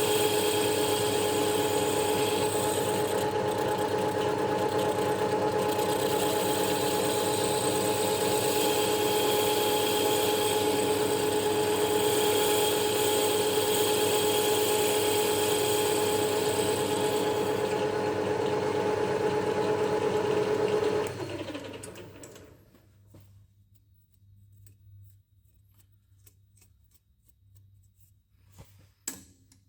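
A machine tool's electric motor running steadily with a pitched whine. About two-thirds of the way through it is switched off and winds down to a stop, its pitch falling. Faint clicks and light handling knocks follow in the quiet.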